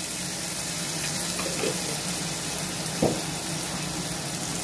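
Ginger-garlic paste sizzling steadily in hot cooking oil, over a steady low hum, with a single soft knock about three seconds in.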